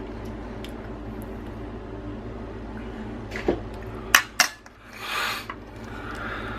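Crab shell being cracked and picked apart over a plate: two sharp clicks about four seconds in, then a short crunchy rustle of shell, over a steady low hum.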